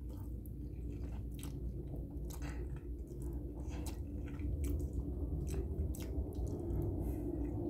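A person chewing a mouthful of spaghetti, with scattered sharp wet clicks and smacks at an uneven pace, over a steady low hum.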